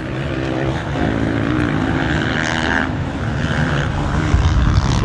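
Motocross bikes racing on the track, several engines revving and growing louder as they come closer.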